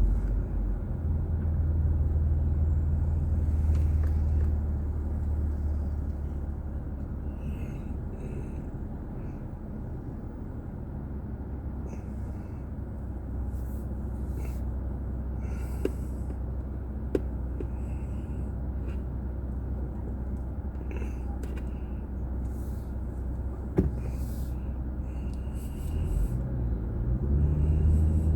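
Car engine and road noise heard from a dashboard drive recorder inside the cabin: a steady low drone that swells about a second in, eases off through the middle, and swells again near the end, with a few faint clicks.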